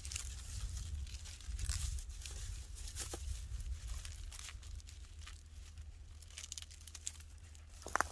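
Dry plant stems, likely reeds, crackling and rustling as they are handled, with short snaps scattered throughout and a sharper snap near the end.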